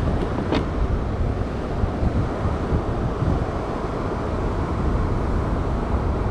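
Wind buffeting the microphone over a steady rush of water, with one light click about half a second in.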